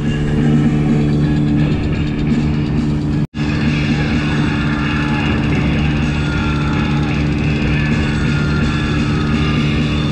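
Gladiator 9.9 hp outboard motor running steadily under way, with rock music with guitar playing over it. The sound drops out for an instant about three seconds in.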